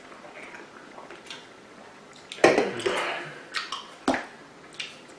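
Close-up eating and tableware sounds: mostly quiet, then a loud, noisy mouth sound about two and a half seconds in that fades quickly, followed by a few sharp clicks and taps.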